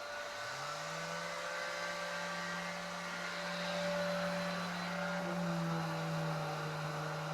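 Electric power sander running steadily, its motor rising in pitch to speed in the first second, for sanding down fairing compound.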